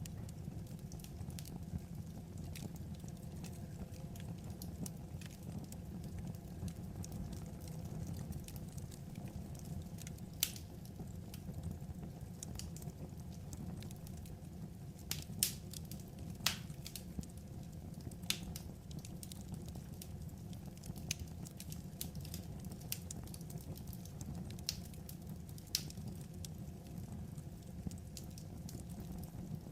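Wood fire crackling: a steady low rush of burning with scattered sharp pops and snaps, a few louder pops in the middle.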